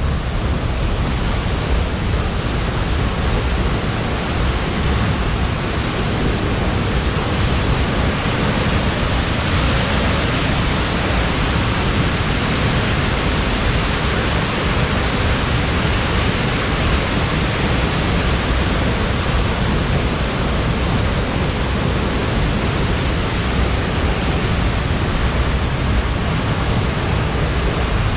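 Steindalsfossen waterfall crashing down: a loud, steady rush of falling water.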